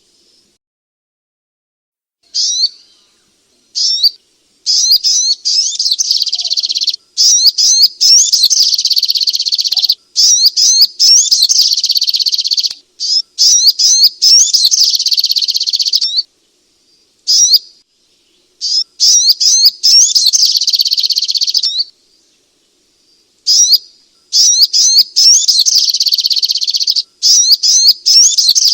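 Little spiderhunter (sogok ontong) song: fast, rapid strings of high chirps in bursts lasting a few seconds, broken by short pauses.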